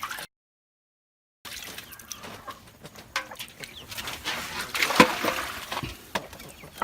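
Chickens clucking in the background over a string of short knocks from a knife on a cutting board, the sharpest knock about five seconds in. The sound drops out completely for about a second near the start.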